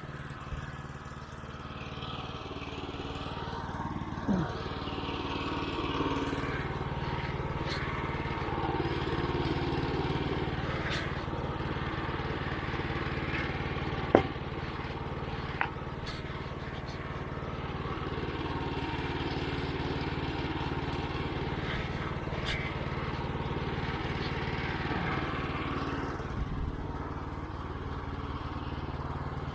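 Woodland Mills HM122 band sawmill's 9.5 hp engine running steadily while the band blade cuts through a walnut log, fed slowly for a cleaner cut. The cutting noise builds over the first few seconds and then holds steady, with a sharp click about 14 seconds in.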